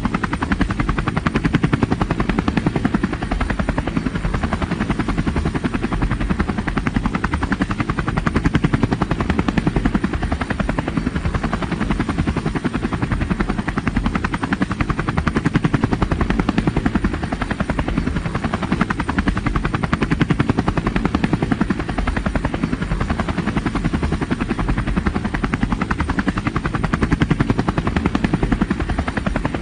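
Helicopter rotor blades chopping in a steady, rapid beat, with engine noise underneath, unchanging throughout.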